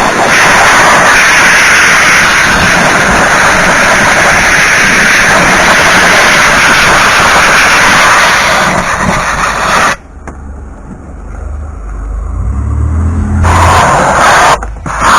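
Compressed air jet blowing debris out, a loud steady hiss that cuts off about ten seconds in. A low hum carries on through the pause, and then the air comes back in two short blasts near the end.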